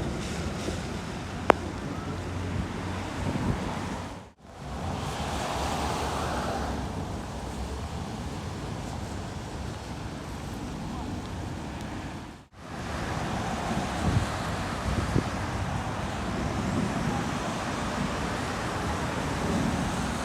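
Steady outdoor rush of wind on the microphone with passing traffic and sea surf. It drops out briefly twice where the clips are cut, and there is a sharp click about a second and a half in.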